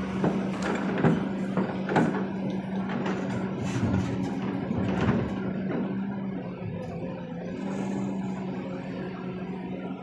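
Kobelco SK200 excavator's diesel engine running steadily with a low hum, with a run of sharp knocks and clatters during the first half as the machine works.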